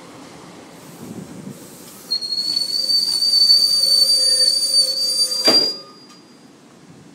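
MBTA commuter rail train squealing as it rolls slowly along the platform. One steady high-pitched squeal starts about two seconds in and holds for about three seconds, ending with a short loud burst.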